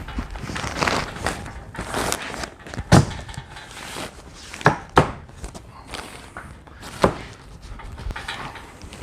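Irregular knocks and thuds of carpentry work with cedar tongue-and-groove boards, with a few sharp single blows about three, five and seven seconds in.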